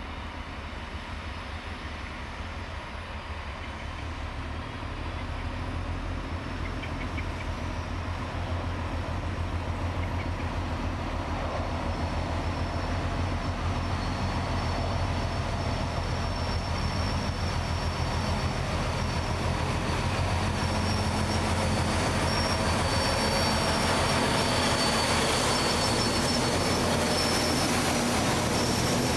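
Diesel locomotive hauling a long train of tank wagons, its engine giving a pulsing low drone that grows steadily louder as it approaches and passes. From about halfway through, the wheels squeal high on the curved track as the tank wagons roll past.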